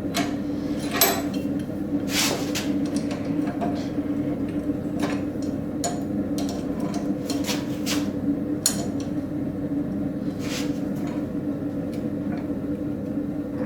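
Scattered light metal knocks and clinks of blacksmithing tools on a hot railroad spike, irregular rather than a steady hammering rhythm, over a steady low hum.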